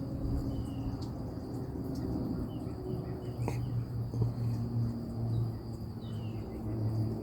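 Crickets trilling steadily, with a few short falling bird chirps and a low hum underneath.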